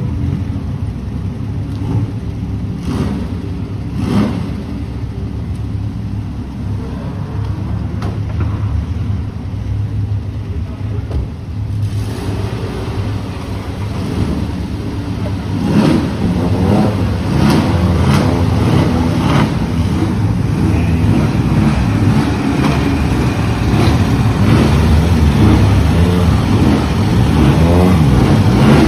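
Car engines running and revving as cars roll slowly in a queue, getting louder about halfway through.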